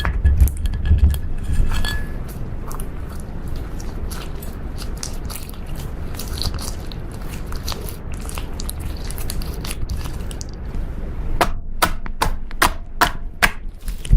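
Slime being kneaded and squeezed by hand, with many small sticky clicks and pops from trapped air. Near the end comes a run of sharper, louder pops.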